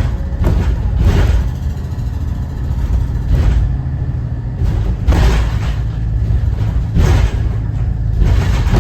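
Thomas Saf-T-Liner C2 school bus under way, its Cummins ISB 6.7 inline-six diesel running with a steady low rumble, while the body rattles and bangs sharply every second or two over bumps.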